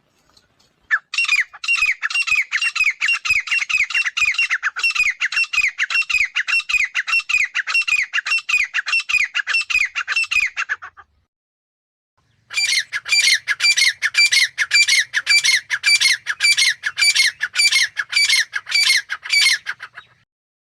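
Grey francolin calling: two long runs of rapid, evenly repeated shrill notes, each note falling in pitch, with a pause of about a second and a half between the runs.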